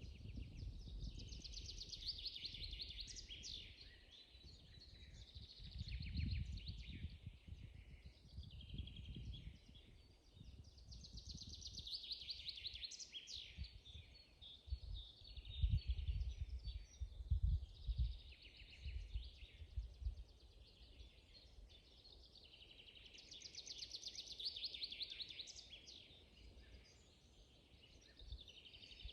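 Songbirds singing in a spring forest: a fast run of high notes that falls away at the end, repeated about every ten seconds, with other calls between. Low rumbling noise comes and goes underneath.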